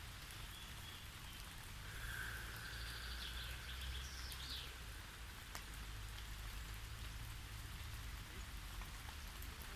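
Steady light rain falling, with faint bird calls about two to four seconds in.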